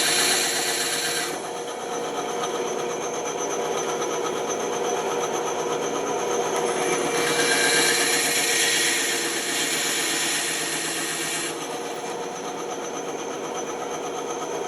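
Bandsaw running steadily, its blade cutting into wood twice: briefly at the start and again for about four seconds in the middle.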